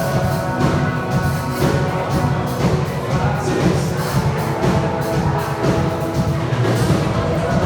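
Live band music with drums and held chords, no voice to the fore: a worship song being played.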